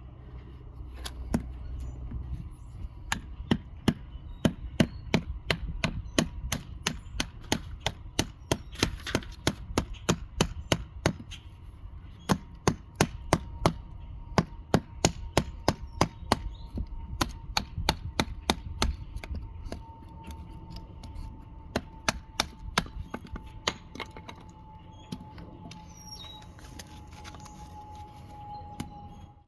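Wood being chopped or struck over and over with a knife, sharp knocks at about three a second, heaviest in the middle stretch.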